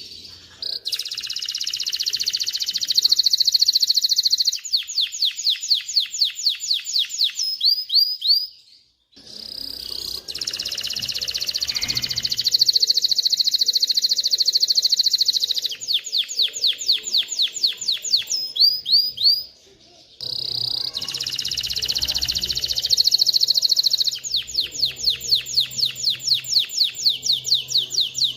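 Male domestic canary singing three long song phrases with brief pauses between them. Each phrase opens with a very fast trill, shifts to slower runs of repeated notes, and ends with a few falling glides.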